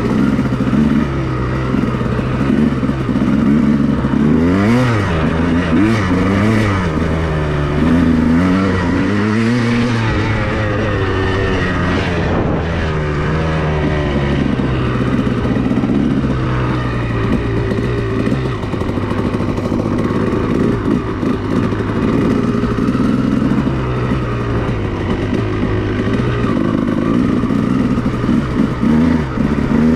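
A 2002 Honda CR250R's two-stroke single-cylinder engine under way. It revs up and down several times in quick succession a few seconds in, then runs at a steadier pitch.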